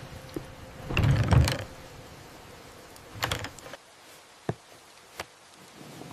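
Two muffled clunks, the first about a second in and the louder, then two short sharp clicks, over a steady low hiss.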